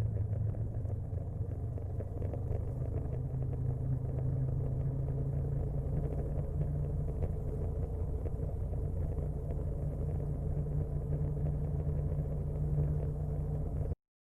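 Honda Monkey 125 motorcycle riding along, its single-cylinder engine running at a steady pace under a low rumble. The sound cuts off suddenly near the end.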